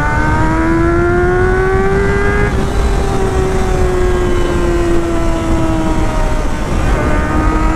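1999 Honda CBR600 F4's carbureted inline-four engine pulling hard at high revs while riding, its pitch climbing for about two and a half seconds, then easing off and falling slowly, with a brief shift in pitch near the end. A steady rushing noise runs beneath the engine.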